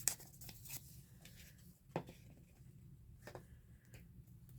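Faint rustling and light taps of paper being handled, with a few sharp clicks scattered through.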